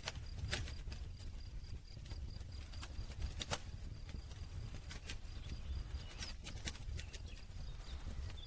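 Wood campfire burning: irregular sharp crackles and pops of the burning wood, a few seconds apart, over a low steady rumble of the flames.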